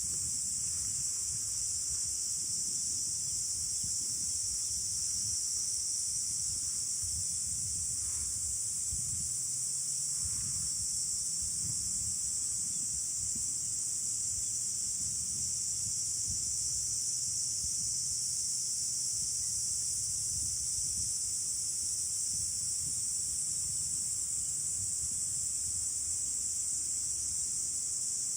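A dense chorus of insects gives a steady, unbroken high-pitched drone. Wind rumbles unevenly on the microphone underneath it.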